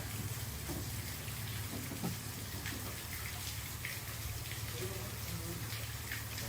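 Running water splashing steadily, over a low steady hum, with a few faint ticks.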